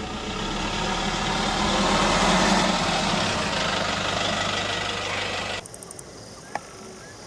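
Car engine running, heard from inside the car, with a steady rush that swells slightly and then holds. It cuts off suddenly about five and a half seconds in, leaving faint outdoor background with a single short click.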